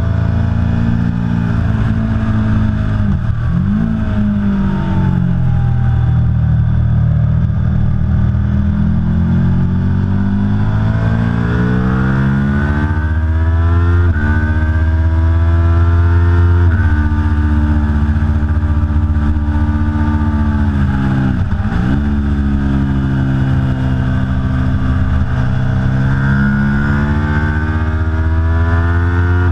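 Aprilia Tuono V4 Factory's V4 engine run hard on track: the revs climb steadily through the gears, dropping sharply at each upshift, twice in quick succession about halfway through. Twice, a few seconds in and again about two-thirds through, the pitch swoops down low and climbs back as the bike brakes and accelerates out of a corner.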